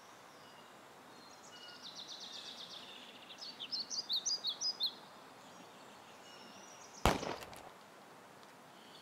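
A songbird sings one phrase of trills running into quick, sharp chirped notes, over a faint steady outdoor hiss. About seven seconds in comes a single loud, sharp crack with a short ringing tail.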